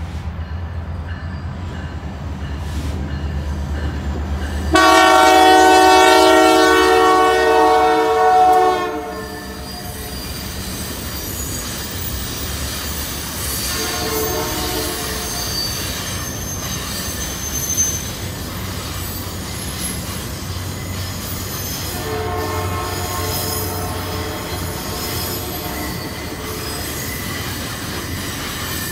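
Diesel locomotives of the Canadian Pacific Holiday Train passing, their engines rumbling as they approach, then a long loud horn blast about five seconds in. Shorter horn sounds follow twice, over the train's rolling noise and high-pitched wheel squeal.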